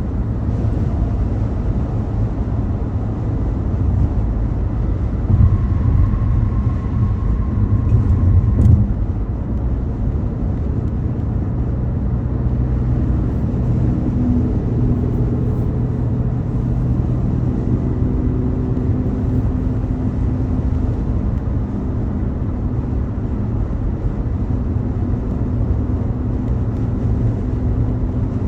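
A car driving on a highway: a steady low rumble of road and engine noise, briefly louder for a few seconds in the first third, with a faint engine hum through the second half.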